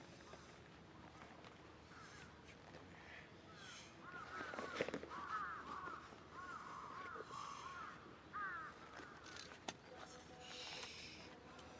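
Crows cawing: a run of repeated caws starting a few seconds in, with a last pair near the end of the run, faint over quiet outdoor background.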